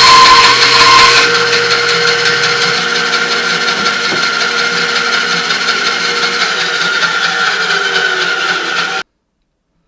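Electric power saw cutting through a glued-up wooden guitar body blank, under heavy load for about the first second, then running steadily with a lighter load. The sound cuts off abruptly about nine seconds in.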